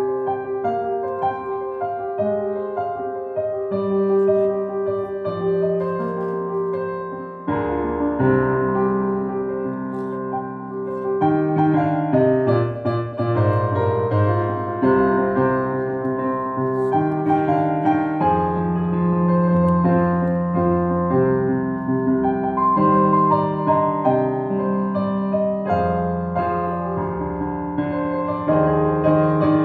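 Solo piano playing dense, rapid runs of notes over a moving bass line. It grows fuller and louder about seven seconds in.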